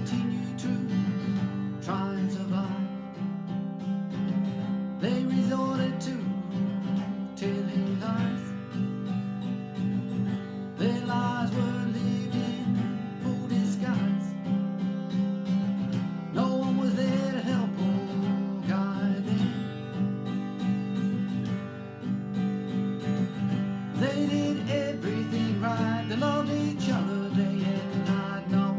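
Instrumental break of a song: strummed acoustic guitar chords carry on steadily, with a melody line of sliding notes played over them.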